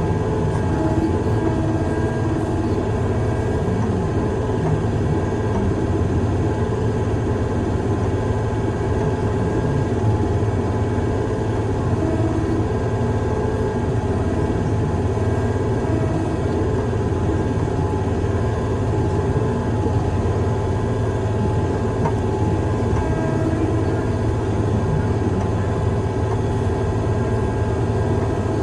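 Heavy diesel engine of construction equipment running steadily under a constant drone, with no change in pitch or load.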